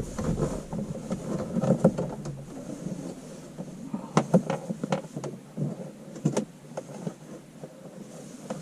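Irregular light clicks, knocks and rustling as a wire is fed and pushed behind loose plastic car interior trim panels.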